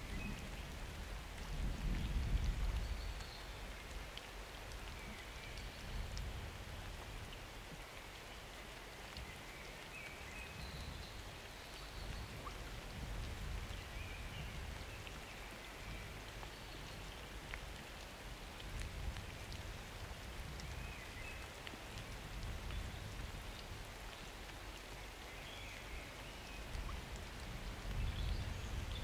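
Steady summer rain falling, with low rumbles swelling about two seconds in and again near the end.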